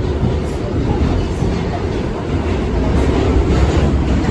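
R68 subway car on the B line, heard from on board: a steady low rumble of the train.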